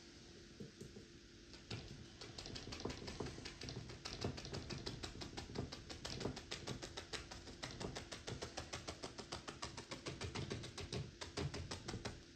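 Paintbrush tapping and dabbing rapidly against a canvas, several quick taps a second, as trees are stippled in for a forest; the tapping starts about a second and a half in.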